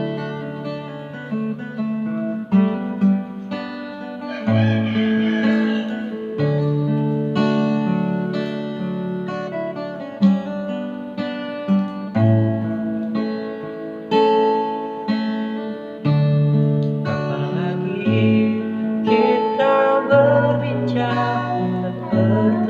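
An acoustic guitar strumming chords, with a voice singing along in places.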